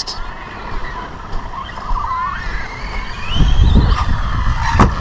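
Brushless electric motor of a 3S RC monster truck whining, its pitch rising and falling as the throttle is worked, with tyres scrabbling over the ground. A low rumble comes in after about three seconds, and there is one sharp knock near the end.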